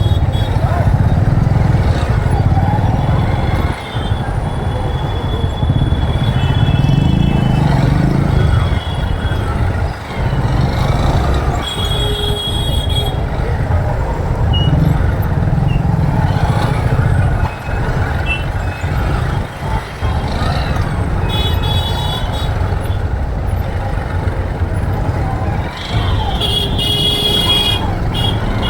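Motorcycle engine running with road and wind noise while riding through city traffic, the engine pitch rising briefly about a quarter of the way in. Vehicle horns toot several times around it.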